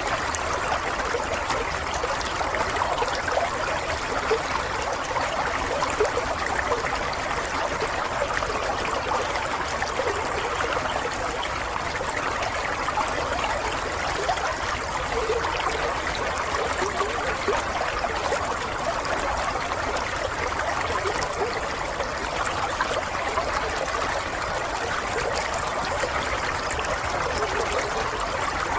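Water flowing steadily in a stream, a continuous trickling and babbling.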